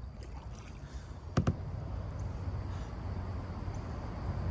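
Two sharp knocks in quick succession about a second and a half in, over a steady low rumble.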